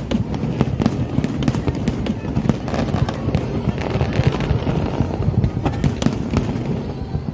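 Fireworks going off in a continuous barrage of overlapping booms and sharp cracks.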